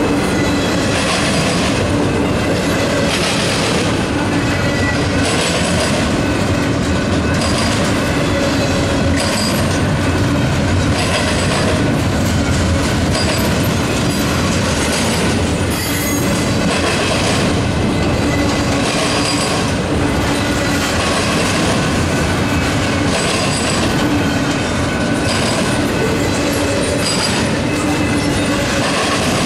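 Double-stack container train's well cars rolling past close by, steel wheels rumbling and clacking over the rail joints and the grade crossing in a steady repeating rhythm, about once a second. A steady wheel squeal runs along with it.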